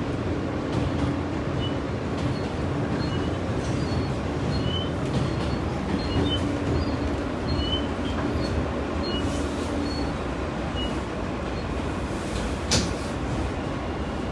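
New York City subway train's steady low rumble and hum, with brief faint high squeaks scattered throughout and one sharp click about 13 seconds in.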